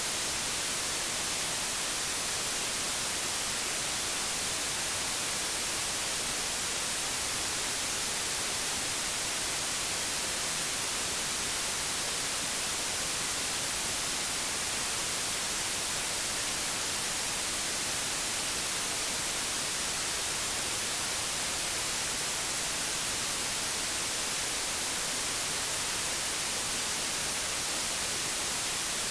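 Analogue television static: a steady, even hiss that is brightest in the treble, with no breaks or changes.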